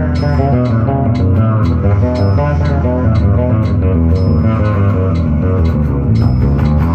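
Electric bass improvising melodic lines over a looped bass part, run through a SansAmp preamp and effects pedals. A metronome click track ticks steadily underneath.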